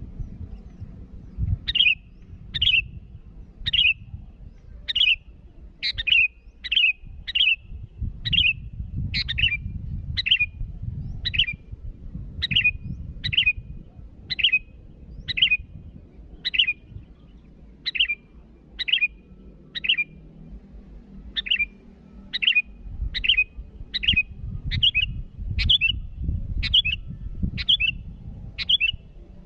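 Sooty-headed bulbul (kutilang) giving a short, sharp call over and over, about one a second, each note dropping quickly in pitch. A low rumble runs underneath.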